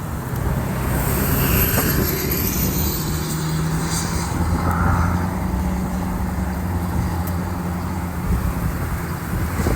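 A motor vehicle's engine running steadily at a low, even pitch.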